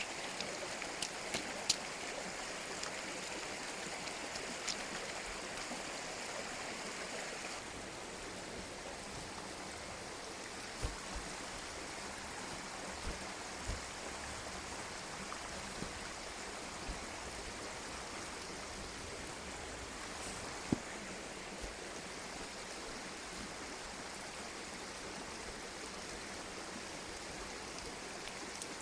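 Mountain stream flowing steadily, an even rush of water, with a few faint clicks and soft knocks over it.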